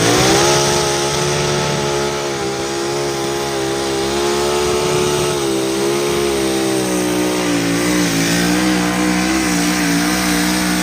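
Mini rod pulling tractor's engine running at full throttle through a pull. Its pitch jumps up right at the start, then holds high with small wavers.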